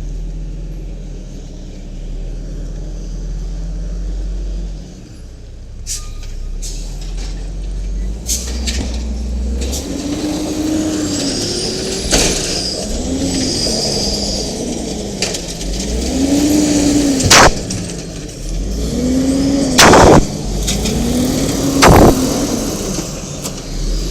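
Garbage truck with an automated side-loader arm, its Cummins L10G natural-gas engine idling and then repeatedly rising and falling in pitch as the hydraulics are worked. Several very loud sharp bangs come in the second half, about every two to five seconds.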